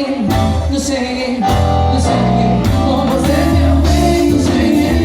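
Live band music with a singer: bass and melody under a voice, with percussion hits cutting through at a steady beat.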